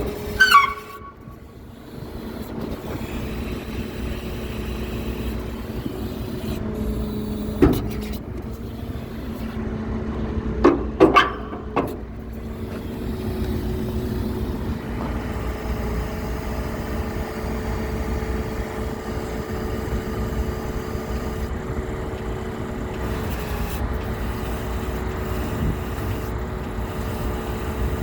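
Western Star W4700 hydro vac truck's diesel engine running steadily. A short falling squeal sounds right at the start, two more come about eleven seconds in, and a single knock is heard about eight seconds in.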